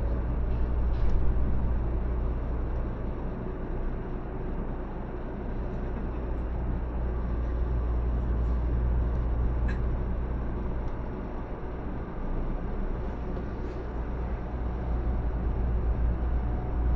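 Steady low hum inside a 500 series Shinkansen car standing at the platform with its doors shut, with a few faint ticks. Near the end a faint whine comes in as the train starts to pull away.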